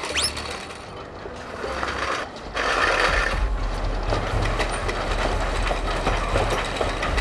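Cartoon sound effects of a train moving on rails: mechanical clatter and clicks, then a heavy low rumble starting about two and a half seconds in and holding.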